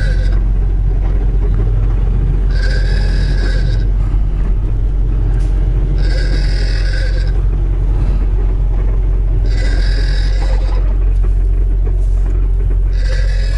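Semi truck's diesel engine running, heard inside the cab as a steady low hum. A short sound with a clear pitch, about a second long, repeats about every three and a half seconds over it.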